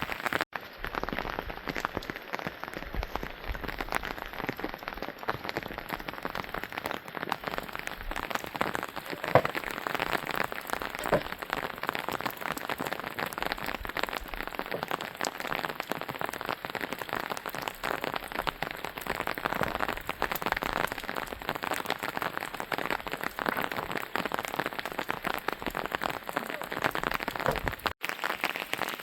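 Steady rain falling, a dense patter of many separate drops striking hard surfaces. It cuts out for an instant twice, about half a second in and near the end.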